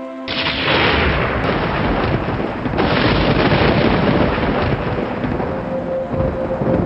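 Thunder: a sudden clap about a third of a second in, then heavy rumbling with a second surge about three seconds in. Soft relaxation music with held tones comes back through the rumble near the end.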